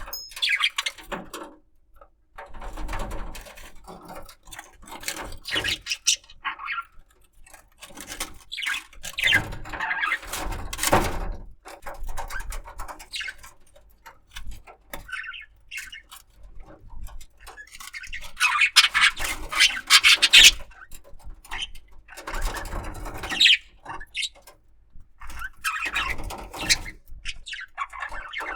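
Budgerigar chattering in irregular scratchy bursts mixed with short high squeaks, pausing for a moment between bursts.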